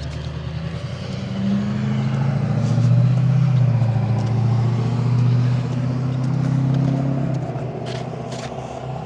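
Road traffic at a crossing: a vehicle's engine runs with a low drone that grows louder over the first few seconds and fades away in the last few.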